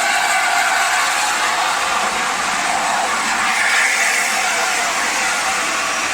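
Steady loud hiss and rush from a steam train, with no distinct exhaust beats.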